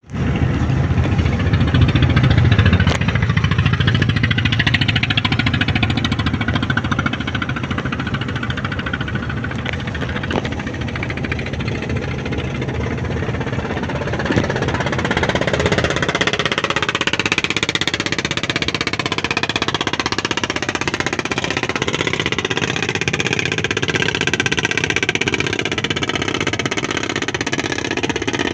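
A boat engine running steadily with a rapid knocking beat.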